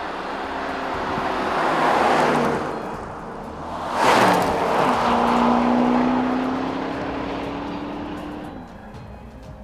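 Aston Martin DBX 707's 4.0-litre twin-turbo V8 driving past at speed. It swells about two seconds in, then passes close about four seconds in with a sudden loud rush and a sharp drop in pitch. After that its engine note holds and climbs slowly as it pulls away, fading near the end.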